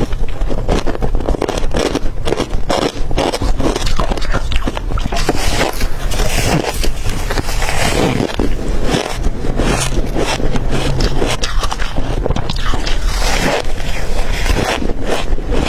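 Hard crushed ice being bitten and crunched close to the microphone: a dense, continuous stream of sharp crackling crunches.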